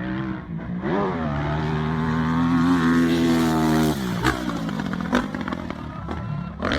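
Dirt bike engine revving: it climbs about a second in and is held high, drops off abruptly about four seconds in, then runs lower with a couple of sharp knocks.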